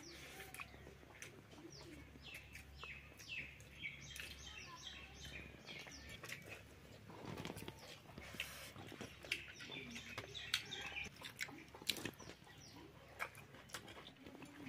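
Birds chirping in the background: many short, high, falling chirps, with scattered sharp clicks.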